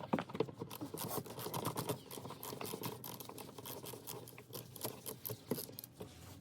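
Rapid, irregular clicking and scraping of hand tools on the bolts holding a car's plastic engine undertray, as the bolts are undone.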